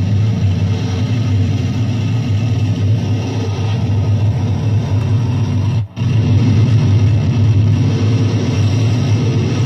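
Loud, dense electronic noise with a heavy low drone, cutting out for an instant about six seconds in.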